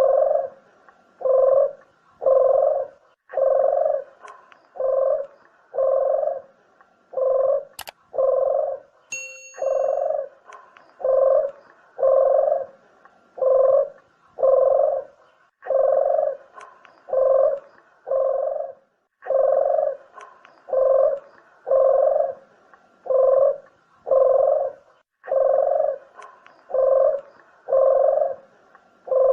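Puter dove cooing over and over, evenly repeated low coos slightly more than one a second with a few short breaks: a call recording played to lure doves for shooting or trapping. A sharp click and a brief high beep sound once about eight seconds in.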